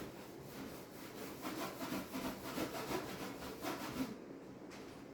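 Scrubby sponge scrubbed back and forth against the inside top of a microwave oven, in quick repeated rubbing strokes that stop about four seconds in.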